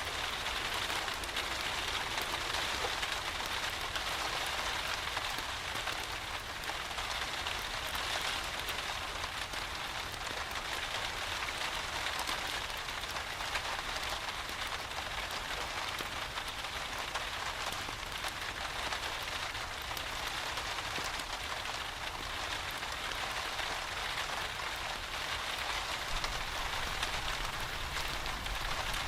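Steady rain falling, an even continuous hiss of many fine drops that does not change in strength.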